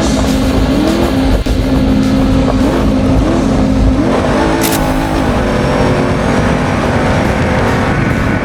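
Off-road race truck's engine running hard at speed, its pitch repeatedly rising and dropping back, over a steady dense rush of noise.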